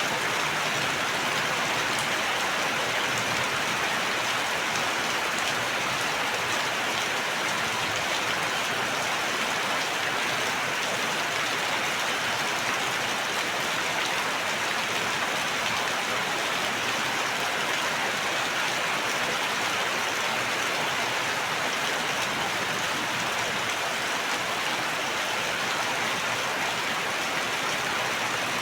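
Steady heavy rain falling and pattering on surfaces, an even, unbroken hiss.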